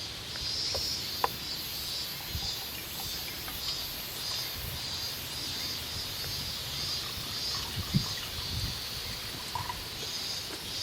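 Outdoor ambience: a steady high, pulsing chirr from wildlife, over a low rumble, with a few sharp clicks and light knocks, the clearest about a second in and near eight seconds in.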